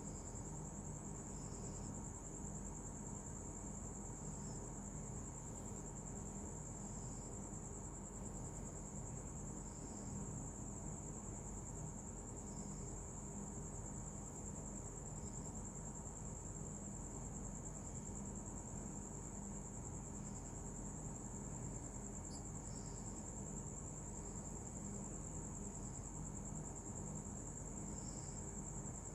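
Insects trilling without a break, a steady high-pitched cricket-like drone, with faint short chirps every second or two.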